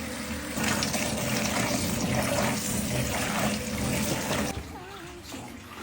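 Tap water running while fresh in-shell peanuts are washed, the flow stopping near the end.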